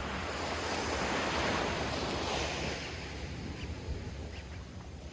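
Ocean surf washing ashore: a broad rush that swells about a second in and eases off toward the end, with wind rumbling on the microphone.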